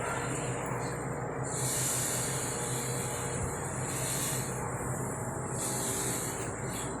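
Sea waves washing in, a steady rush of surf with three swells of hissing spray.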